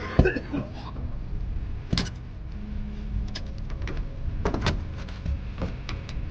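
A series of sharp knocks and clicks, several close together at the start, one strong one about two seconds in and more scattered through the last few seconds, over a low steady rumble.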